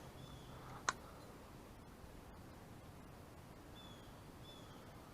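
Quiet pond-side air with one sharp click about a second in, and two faint short bird chirps, each falling a little in pitch, near the end.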